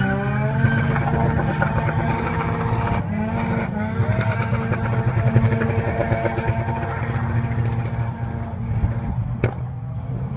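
Mazda RX3 coupe's rotary engine held at high revs in a burnout, rear tyres spinning. The revs briefly dip twice about three seconds in, and there is a single sharp click near the end.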